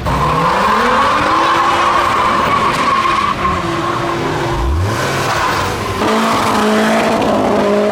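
A car engine revving hard with its tyres squealing in a wheelspin for about three seconds, then the revs rising again and settling to a steady engine note.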